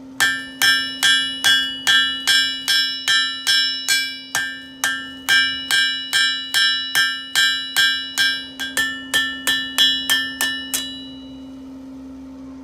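Hammer blows on an anvil as hot steel is forged, a steady run of ringing strikes about two and a half a second that stops a little before the end.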